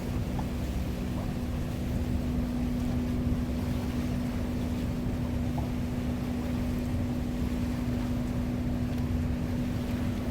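A Lake Geneva cruise boat's engine droning steadily: one constant hum over a low rumble, with an even rushing noise.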